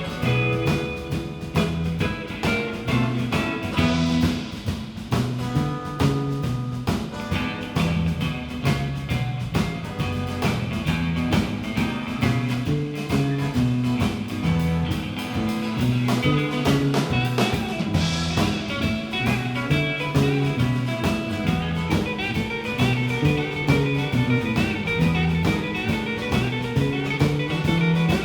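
A live band playing an instrumental passage with no vocals: guitar over a stepping bass line and a steady drum-kit beat, with cymbal crashes about four seconds in and again about eighteen seconds in.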